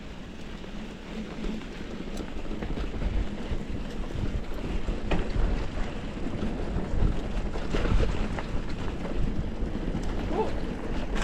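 Wind buffeting the microphone over the rolling rumble of a mountain bike on a dirt trail, with a few short knocks and rattles.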